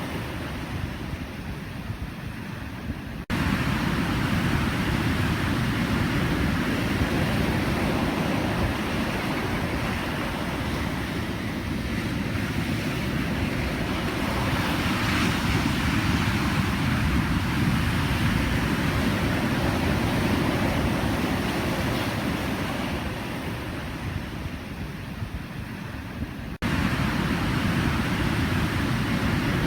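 Pacific Ocean surf: waves breaking and washing in a continuous rush that slowly swells and ebbs. The sound jumps abruptly about three seconds in and again near the end.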